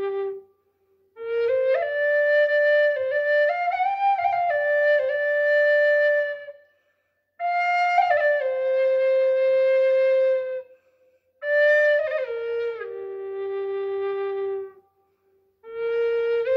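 Solo melody on a wind instrument, played slowly in phrases of a few seconds with long held notes and short pauses between phrases.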